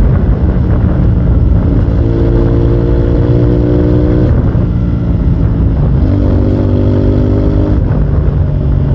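Motorcycle engine pulling under load through the gears, its pitch climbing and then dropping sharply at each upshift, right at the start, about four seconds in and again about six seconds in.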